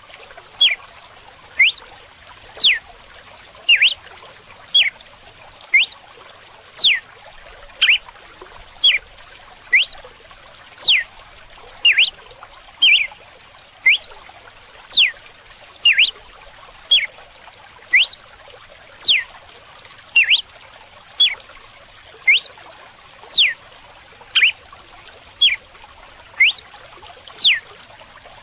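Red-cowled cardinal (galo-de-campina) singing its whip-like 'açoite' song: sharp downward-sweeping whistles alternating with shorter notes, about one a second, over a steady trickle of running water.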